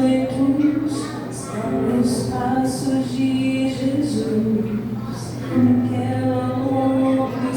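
A woman singing a Christian worship song in held, sustained phrases over a steady instrumental accompaniment.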